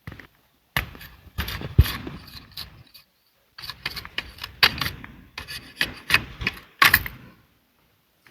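Wood being handled: irregular sharp knocks and rasping scrapes of wood against wood, in two clusters with a short pause about three seconds in.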